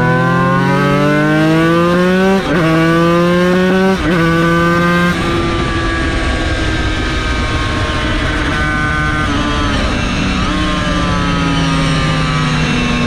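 Yamaha TZ250 two-stroke V-twin racing engine accelerating hard, its pitch climbing through two quick upshifts about 2.5 and 4 seconds in. About 5 seconds in the throttle comes back and the engine runs on at part throttle, its pitch slowly falling.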